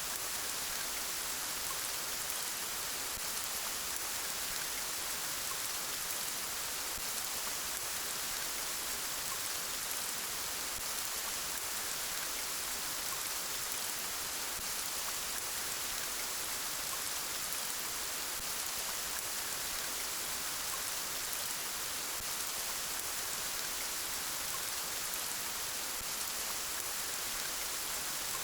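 Steady rain falling, an even hiss of raindrops with no changes.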